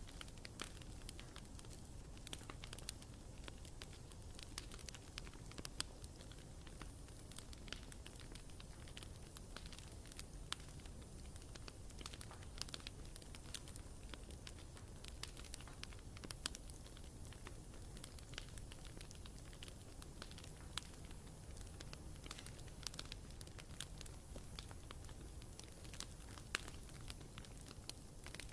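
Campfire burning steadily, with frequent sharp crackles and pops of burning wood over a low steady rumble of the flames.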